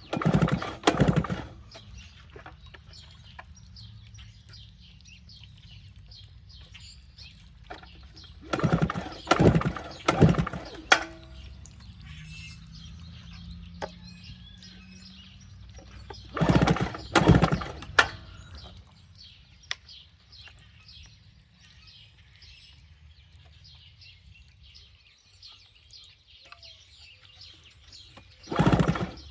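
Recoil starter cord of a small two-stroke generator engine pulled over and over in short groups of quick pulls, the engine cranking without firing: there is no spark from a dead ignition coil.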